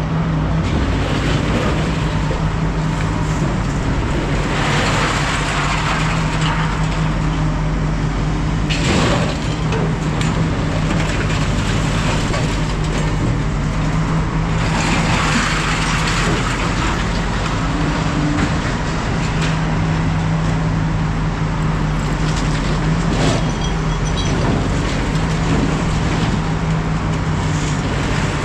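Heavy diesel equipment engine running steadily, with several louder rushes of noise about five, nine, fifteen and twenty-three seconds in.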